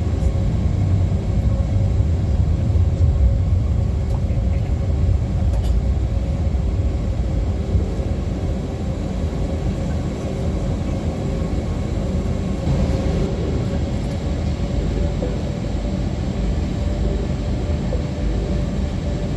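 Airbus A321-200 cabin noise with the jet engines running, a steady low rumble and hum with a faint steady whine through it, as the airliner taxis before takeoff.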